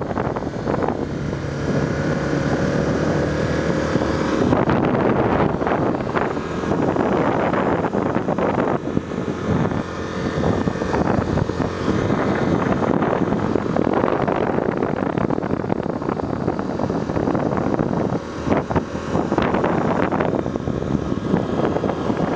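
Honda Tornado 250 single-cylinder motorcycle running at road speed, with wind rushing over the microphone while riding.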